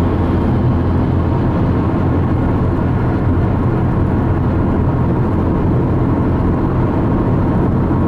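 Steady road noise of a car driving at freeway speed, a constant low rumble of engine and tyres heard from inside the cabin.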